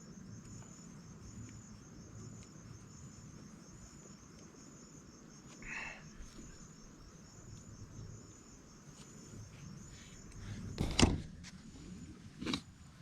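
Insects chirping high and steady in an even, repeating pulse. Two sharp knocks come near the end, about a second and a half apart, the first the loudest sound.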